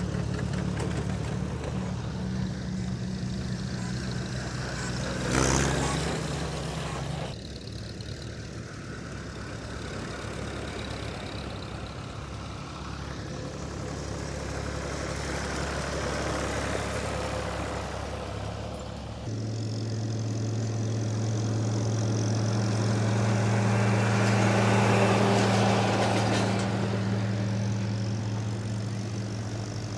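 Farm tractor engines running as tractors drive past one after another. The engine note changes a few times, and a louder engine comes in about two-thirds of the way through, swelling as it passes and then easing off.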